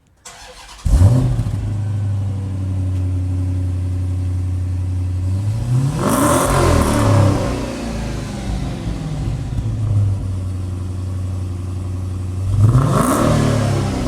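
Cold start of a 2013 Dodge Challenger SRT8 392's 6.4-litre HEMI V8: brief cranking, then it fires with a loud flare about a second in and settles into a steady high idle. The engine is revved twice, about six seconds in and again near the end, pitch rising and falling each time.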